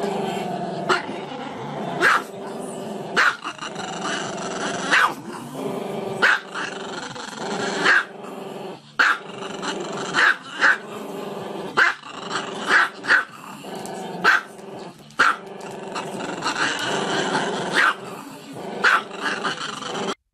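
Small black-and-tan dog giving a continuous low growling howl, broken by short sharp yaps about once a second.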